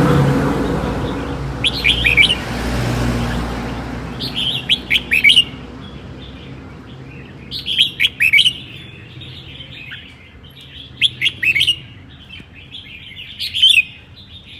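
Red-whiskered bulbul singing its 'ché' song, several quick clusters of sharp notes a few seconds apart. A low rumble fades away over the first few seconds.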